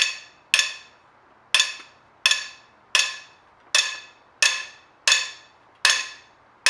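Cylinder head bolts popping as they are turned through a 90-degree angle-torque step with a wrench, about ten sharp ringing metallic pops, roughly one every 0.7 seconds. The pops come from the bolts getting very tight near final torque.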